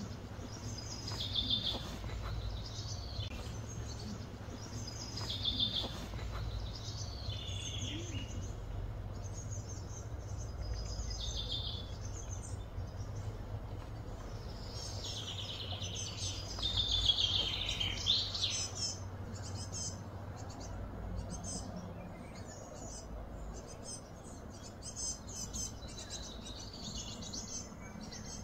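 Birds chirping in short repeated phrases, loudest about halfway through, over a low steady hum.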